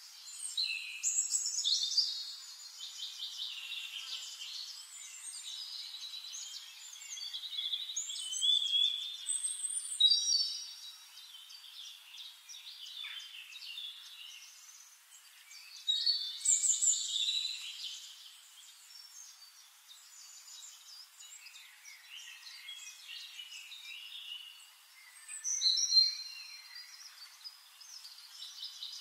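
Small birds chirping and twittering, a dense mix of short high calls with louder flurries every several seconds.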